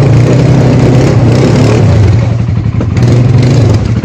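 ATV engine running steadily and loud, with a low, rough hum that dips briefly a little past halfway.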